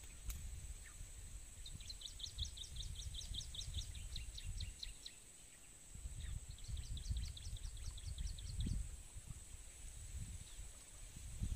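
A bird calling in two runs of quick repeated notes, about six a second, over a steady high insect drone and a louder low rumble.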